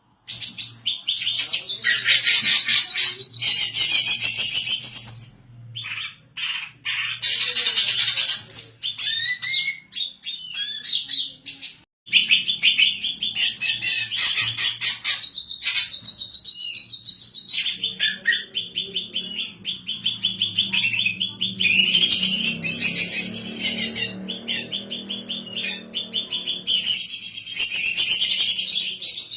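Female greater green leafbird (cucak ijo) singing a fast, continuous chattering song of high trills and whistles, broken by short pauses about five seconds in and again about twelve seconds in.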